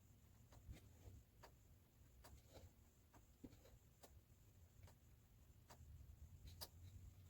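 Near silence: faint room tone with scattered light ticks and clicks at irregular intervals.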